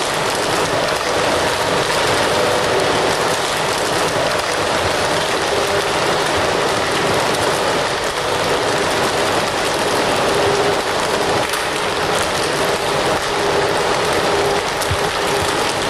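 Fire crackling steadily: a dense stream of small pops and snaps over an even hiss.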